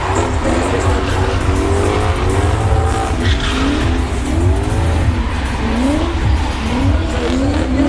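V8 drift car engines revving up and down again and again under throttle while sliding, over a deep exhaust rumble, with tyre squeal.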